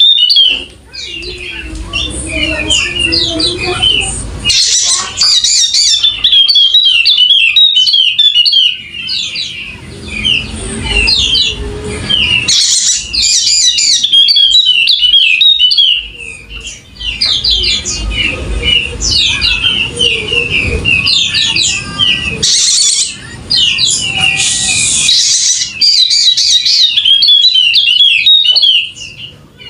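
Yellow-spectacled white-eye (pleci wallacea) singing in full, continuous voice: long, fast twittering phrases of high chirps, each several seconds long, broken by short pauses.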